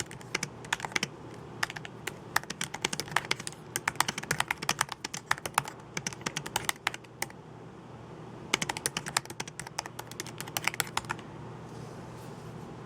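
Computer keyboard typing in quick runs of keystrokes. It pauses for about a second past the midpoint, resumes, then stops about two seconds before the end, leaving a faint steady hiss.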